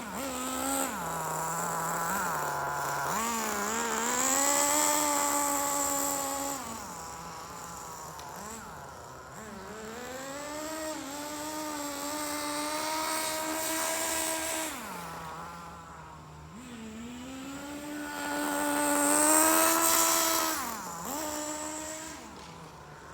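Small two-stroke nitro engine of an HPI SH-18 RC car, rising smoothly from idle to about half throttle, holding for a few seconds, then dropping back to idle as the car brakes, about three times over. These are gentle half-throttle break-in runs on a new engine.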